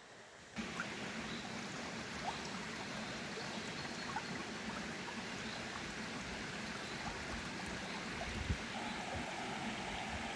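Steady rush of flowing water, beginning abruptly about half a second in, with a few faint small ticks and chirps through it.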